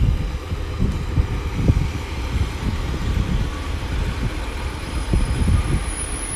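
Diesel multiple unit, a Class 143 Pacer coupled to a Class 150 Sprinter, pulling into the station past the microphone. A continuous low rumble of engines and wheels on the rails, with irregular low thumps throughout.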